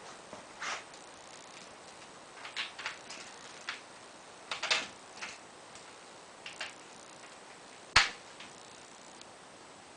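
Scattered clicks and knocks of small hardware and frame tubes being handled and fitted together while assembling a solar panel mounting frame, with one sharp knock about eight seconds in.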